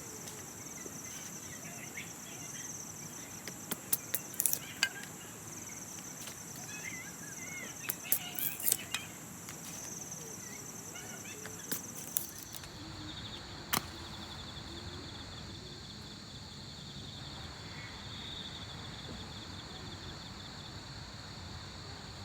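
Insects chirring outdoors in steady high-pitched pulsing trills, which change to a lower trill about halfway through. A few clusters of sharp clicks or snaps stand out over them.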